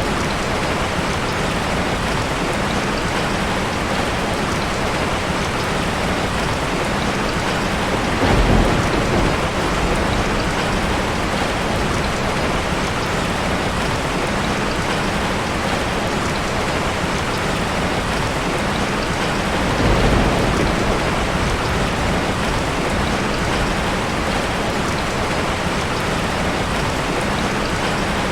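Steady rain falling, an even hiss of drops on surfaces, with two brief louder swells that reach down into the lows about eight and twenty seconds in.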